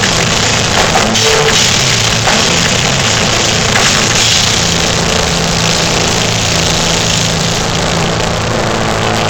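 Live metal band playing loud distorted electric guitars and bass over a pounding drum kit, badly overloaded in the recording. About halfway through, the drumming gives way to a held, droning chord.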